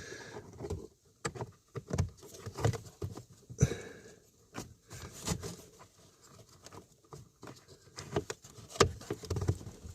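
Faint, irregular small clicks, taps and rustling: a plastic HVAC blend door actuator being pushed and wiggled a little at a time onto its gear under a Dodge Durango's dashboard.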